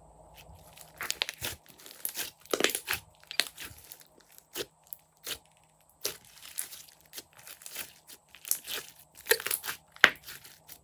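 Slime being squeezed and kneaded by hand, making irregular crackling and popping clicks with short quiet gaps between them.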